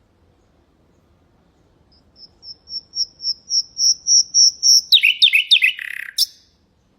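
Nightingale singing one song phrase: a crescendo of repeated high piping notes, about four a second, then a few quick falling notes and a short buzzing rattle that ends in a sharp high note.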